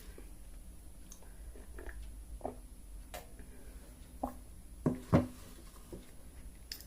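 Person eating pakhala rice with chicken: soft chewing and wet mouth clicks at irregular intervals, with two louder knocks about five seconds in.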